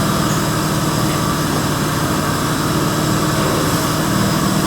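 The 1999 Dodge Avenger's 2.5-litre V6 running at a steady idle while it warms up, with the crankshaft position sensor air gap freshly readjusted.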